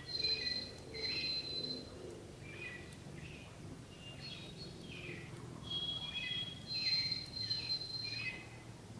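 Songbirds singing: clear whistled notes, some held steady and high, mixed with shorter chirps. The song comes in two bouts, the second starting about four seconds in.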